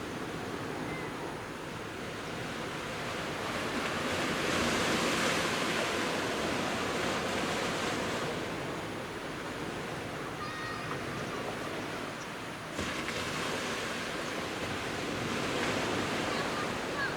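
Sea surf washing onto a beach: a continuous rushing wash that swells and eases as the waves come in.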